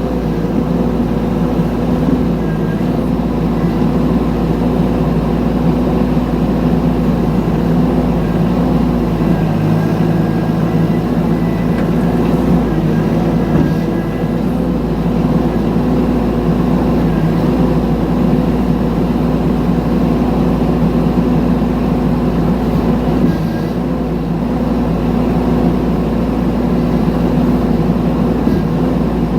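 Mini excavator's engine running steadily under a working load, with a constant low drone and little change in pitch.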